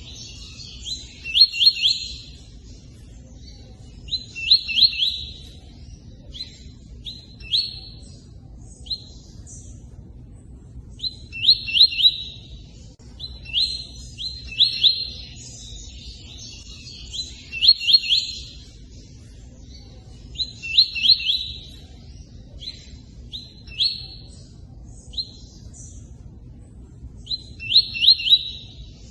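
A tui-tui songbird singing short phrases of quick, sharp notes in bursts every couple of seconds, with pauses between. Faint running water sounds steadily underneath.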